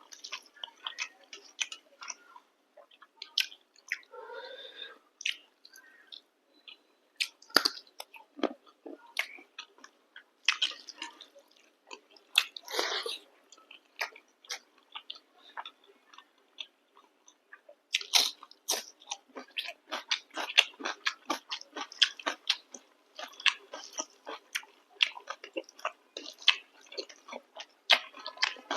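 A person chewing a mouthful of chicken curry and chapati, with wet clicking and smacking mouth sounds. The chewing thins out with a quiet stretch about halfway through, then turns quick and steady for the last third.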